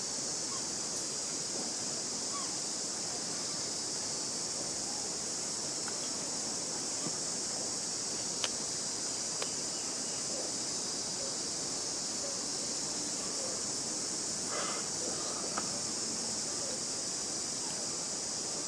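Steady high-pitched insect chorus, with a few faint clicks and a brief soft sound about three-quarters of the way through.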